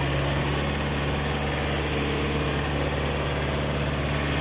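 Tractor engine running steadily with an even hum that holds constant throughout.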